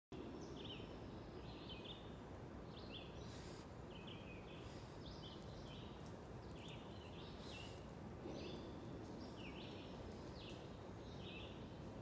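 Woodland birds chirping: short, quiet notes repeated every half second to a second, over a steady low background noise.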